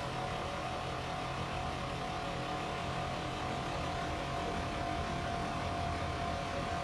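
Amagi Railway diesel railcar running past close by: a steady engine rumble with one constant whine over it.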